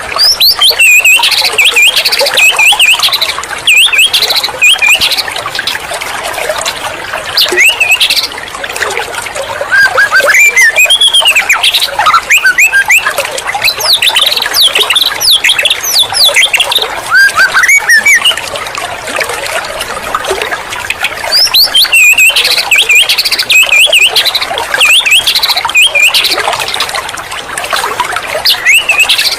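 White-rumped shama (murai batu) singing loudly: varied whistled phrases and quick chattering trills in long bursts broken by short pauses.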